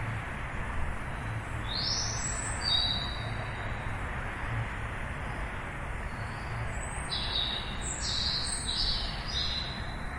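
Birds chirping: a short run of high chirps about two seconds in, then a quicker cluster of chirps near the end, over a steady low background rumble.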